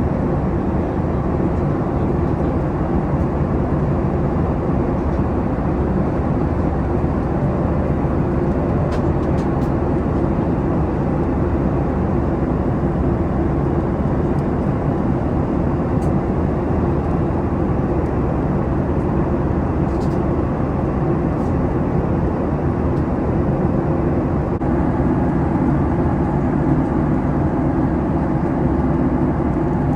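Steady drone inside the passenger cabin of a Boeing 737 MAX, with a few faint clicks.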